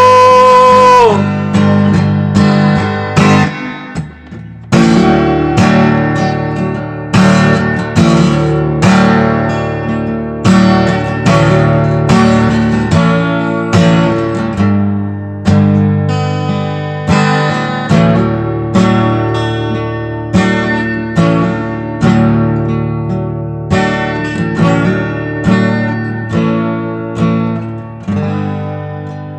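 Instrumental break of a song: acoustic guitar strumming chords in a steady rhythm, about one chord a second, after a held sung note ends about a second in.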